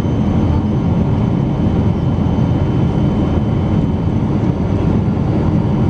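Steady, loud rumble of a Boeing 777-200's engines and airflow heard inside the passenger cabin, a low, even drone with a faint high steady whine over it.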